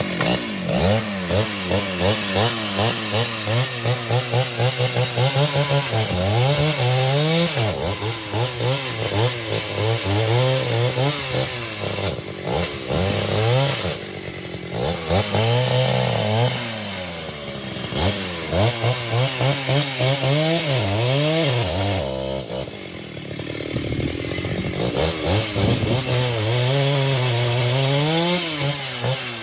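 Two-stroke chainsaw running, its engine revving up and down again and again, easing off briefly about halfway through and again at around three quarters.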